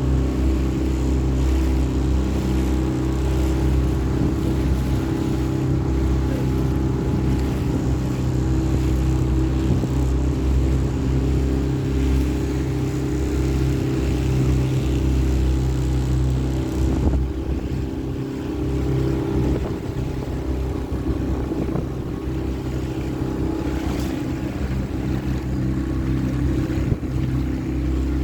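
Small hire motorboat's engine running steadily under way, with a steady low hum and some water and wind noise. It eases slightly a little over halfway through.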